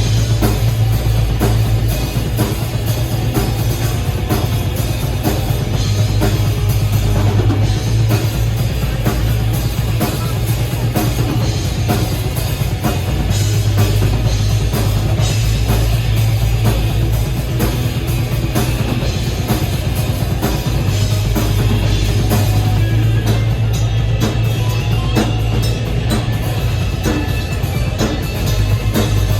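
Loud crust punk / black metal music: fast, dense drumming over heavy bass and guitar, running without a break.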